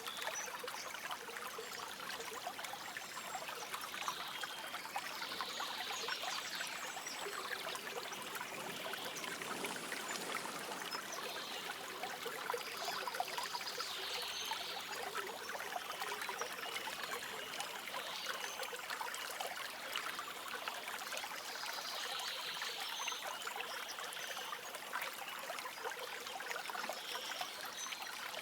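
Shallow stream trickling and babbling steadily over stones, with faint high bird chirps now and then.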